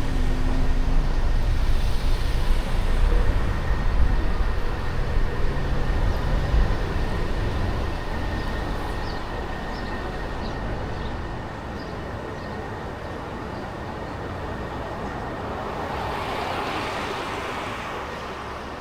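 A car being driven through city traffic: a heavy low road rumble that dies away over the first half, then quieter steady traffic noise with a passing swell near the end.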